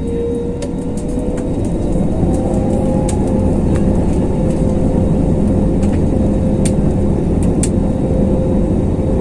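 Cabin noise of an Airbus A321neo in flight: its jet engines and the rushing air make a loud steady drone with a humming engine tone. The tone rises slightly and the noise swells a little about two seconds in, with a few light clicks and rattles.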